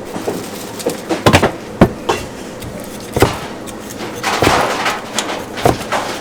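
Irregular sharp knocks and clatter of kitchen work, about a dozen over a few seconds, from utensils and cookware being handled.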